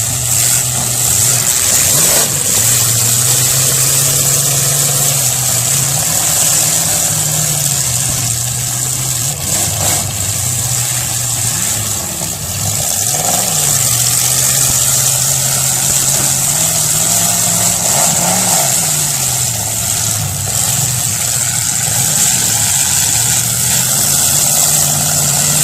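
Demolition derby cars' engines running, the pitch rising and falling now and then as they rev.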